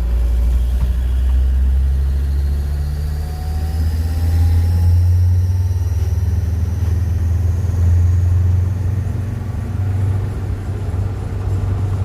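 Land Rover Defender TD5 five-cylinder turbodiesel engine running steadily with a strong low rumble, with a leaking exhaust gasket that makes a hissing noise, described as terrible.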